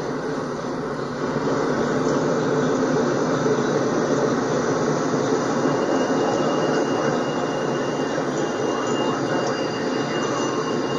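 Intermodal freight train passing close by: a steady rumble and clatter of container well cars on the rails, with mid-train diesel locomotives going by about halfway through. From about halfway in, a faint high, steady squeal of wheel flanges on the curve.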